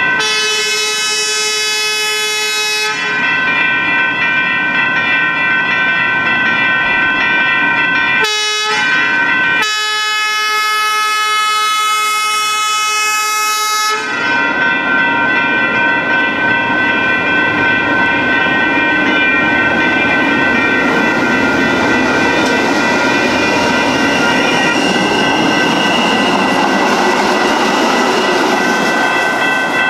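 Train horn sounding at a railroad crossing over the steady ringing of the crossing bells. There is a long blast, a brief toot about eight seconds in, then another long blast. The train then passes with a rising rush of wheel and rail noise while the bells keep ringing.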